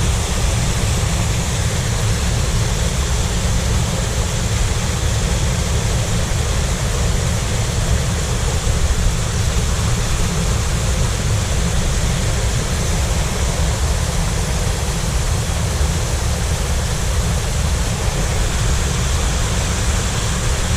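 Waterfall pouring into a rock pool: a steady rush of falling water with a deep rumble underneath.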